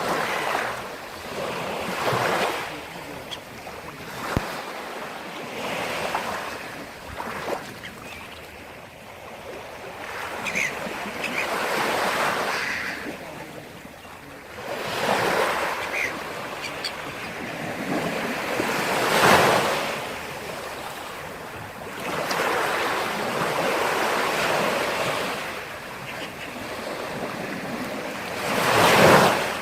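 Black Sea waves breaking and washing up the shore, a fresh swell of rushing surf every few seconds, the largest near the middle and just before the end.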